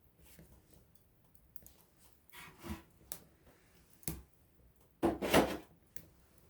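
Campfire wood crackling with irregular sharp pops, and a louder run of crackles about five seconds in.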